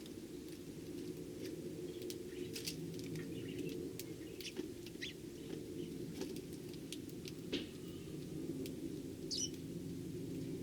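Eurasian tree sparrows chirping in short, scattered calls and ticks, over a steady low hum.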